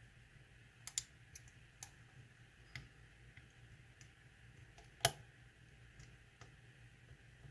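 Faint, scattered metallic clicks of a lock pick and tension wrench working the pins inside a lock's keyway, with one sharper click about five seconds in, over a low steady hum.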